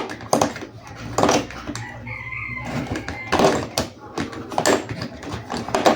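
Plastic toys and packaging being handled: irregular clicks and knocks.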